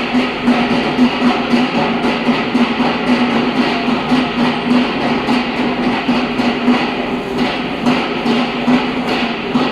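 Foundation drilling rig working a pile hole: a steady machine hum under rapid, even knocking, several strikes a second.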